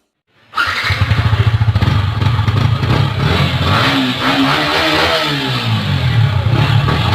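Yamaha R15 V3's 155 cc single-cylinder engine running through its exhaust, starting about half a second in with a fast steady pulse, then revved up and down a few times.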